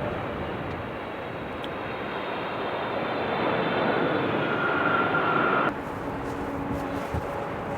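Jet airliner engine noise swelling, with a rising turbine whine, then cutting off abruptly about two-thirds of the way through and leaving a lower, steady rumble.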